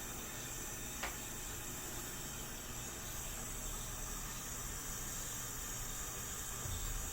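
A steady hiss, with a single short click about a second in.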